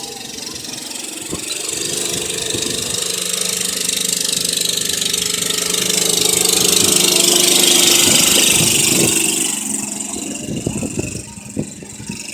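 Motorcycle engine running steadily under a strong rush of wind noise. It swells louder to a peak about eight seconds in, then eases off.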